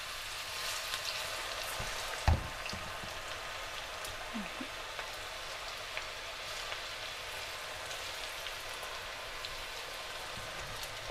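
Onion pakodi batter deep-frying in hot oil: a steady sizzle with small crackles and pops throughout. A single sharp knock about two seconds in.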